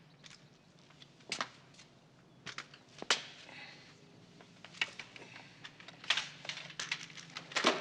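About nine light knocks and clicks at irregular intervals of roughly half a second to a second and a half, over a faint low hum: the small sounds of people moving and handling things in a room.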